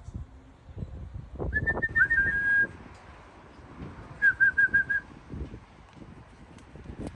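A person whistling to call racing pigeons in to the loft: a rising whistle held for about a second, then a quick run of five short whistles a couple of seconds later. Soft knocks and rustling sit underneath.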